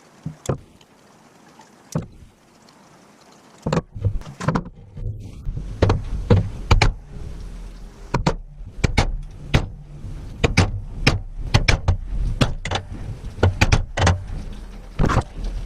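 Sharp, irregular metal knocks and clinks from work on a cast iron stove, about two a second over a low rumble, starting a few seconds in after a near-quiet stretch with a few single clicks.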